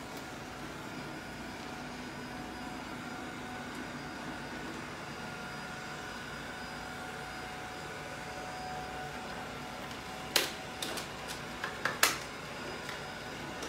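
Vacuum cleaner motor running steadily with a faint whine, interrupted about ten seconds in by a few sharp knocks, the two loudest under two seconds apart.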